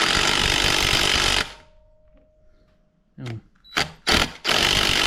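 A power tool, like an impact driver running a bolt, runs in two bursts of about a second and a half each, one at the start and one near the end, with a few short spurts between.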